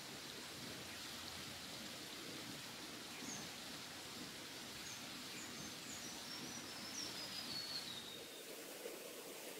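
A bird calling a quick run of short, high notes that step downward in pitch, from about three seconds in until about eight seconds in, over a steady rushing outdoor background.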